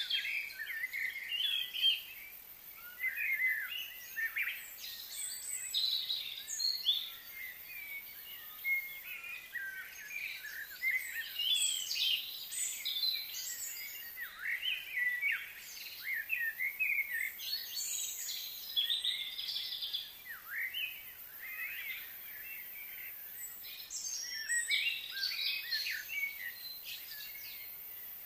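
Birds chirping and singing, a busy chorus of short, quick high calls that come and go.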